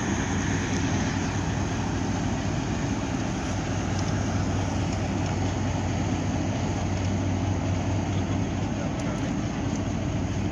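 Ship's engine running with a steady low drone, with a constant hum under a spread of noise.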